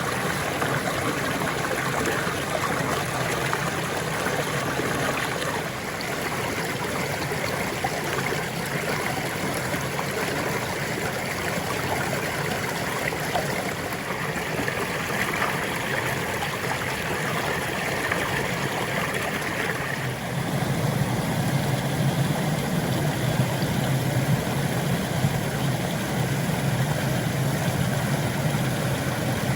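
Stream water running steadily. About twenty seconds in, a deeper low rumble comes in and stays under the water sound.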